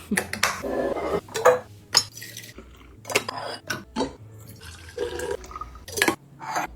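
Liquid being poured into a container, with repeated sharp clinks and taps of containers being handled and set down.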